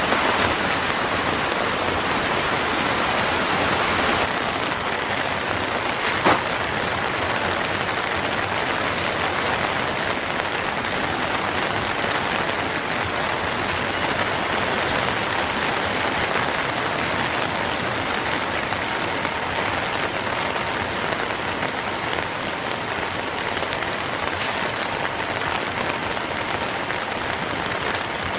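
Steady rain falling, an even dense patter, with one sharp click about six seconds in.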